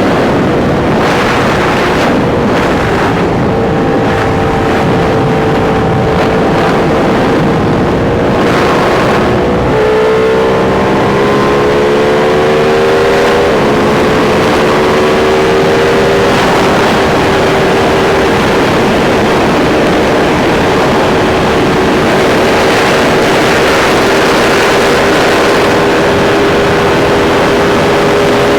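Sport motorcycle engine running at highway cruising speed under heavy wind noise. About ten seconds in its pitch shifts and climbs for a few seconds, then settles back to a steady drone.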